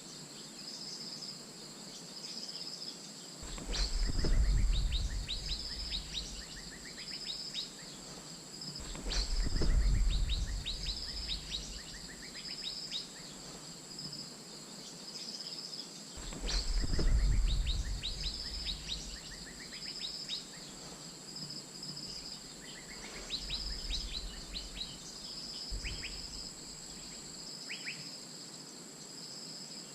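Asian fairy-bluebird calling in three main bursts of quick high notes, with weaker calls later, over a steady high insect drone and a regularly pulsing insect chirp. A low rumble comes with each of the louder bursts.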